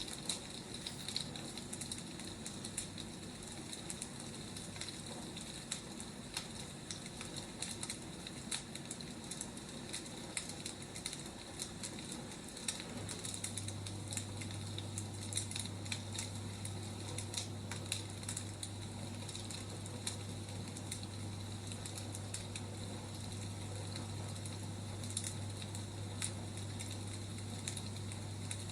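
Wood fire crackling, with irregular small pops and snaps over a steady hiss. A steady low hum comes in about halfway through.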